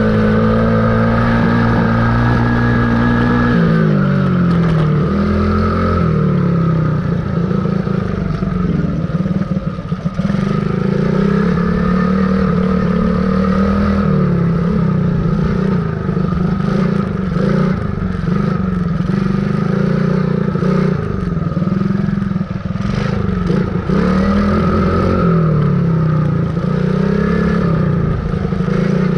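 Dirt bike engine running hard, its pitch dropping sharply about four seconds in and then rising and falling again and again as the throttle is opened and closed. Scattered rattling knocks come through in the middle stretch.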